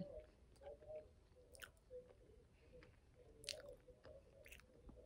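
Near silence with faint close-up chewing: a few soft, wet mouth clicks from someone eating macaroni and cheese.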